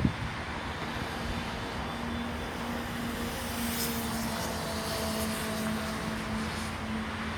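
Jet engines of an Airbus A330-300 on final approach: a steady rushing noise with a low hum, the hiss brightest about halfway through.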